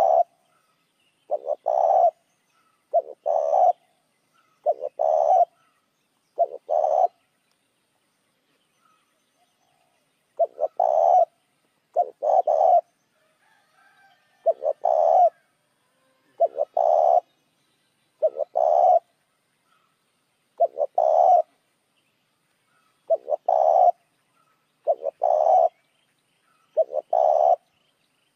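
Spotted dove cooing, used as a lure call: a short multi-note coo phrase repeated about every two seconds, with one pause of a few seconds about a third of the way in.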